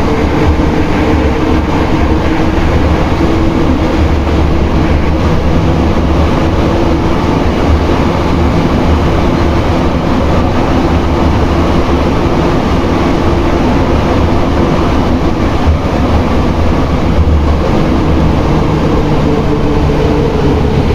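Running noise inside an Alstom NS-93 rubber-tyred metro car moving steadily between stations: a constant low rumble with a steady two-note hum.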